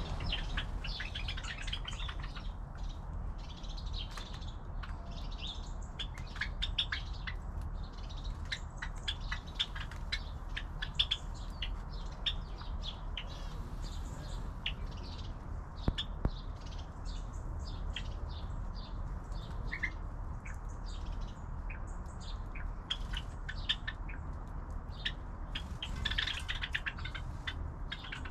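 Many small birds chirping and twittering, short high calls coming thick and fast, over a low steady rumble.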